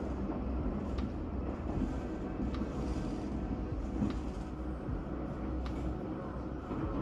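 Nishikigawa Railway diesel railcar running along the line: a steady low rumble with a sharp click about every second and a half as the wheels cross rail joints.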